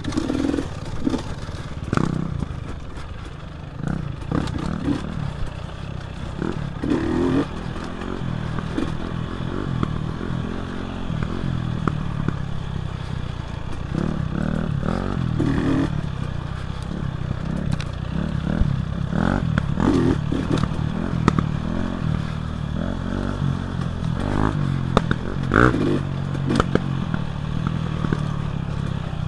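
Dirt bike engine running and revving up and down as the bike is ridden on a single-track trail, with frequent clatter and knocks from the bike over rough ground.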